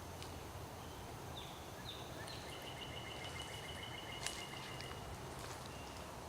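Quiet outdoor ambience with faint high-pitched animal calls: three short chirps, then a steady high trill lasting about two seconds. A sharp tick sounds about four seconds in.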